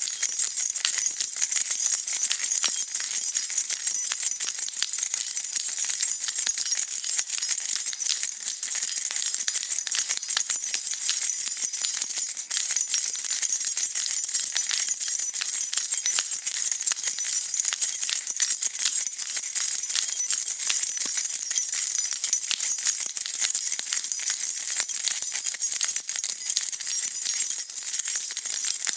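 A bunch of metal keys shaken continuously, a dense, steady, bright jingling with no pause.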